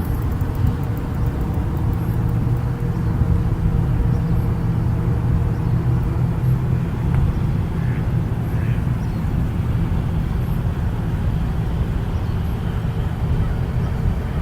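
Steady low rumble of motor traffic, even in level throughout.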